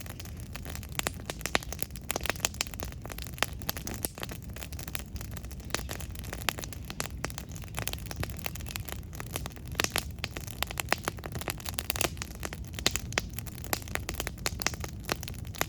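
Wood campfire burning: many irregular sharp pops and crackles over a steady low rumble of the flames.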